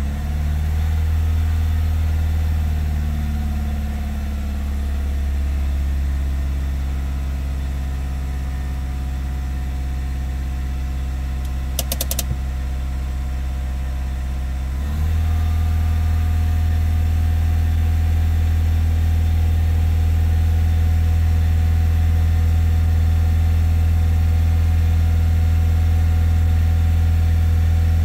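Renault Clio 4 engine idling at a fast cold idle of about 2,000 rpm while the coolant is still warming up. A brief clatter of a few clicks comes just before the middle. Then the engine speed steps up and it runs steadily a little louder.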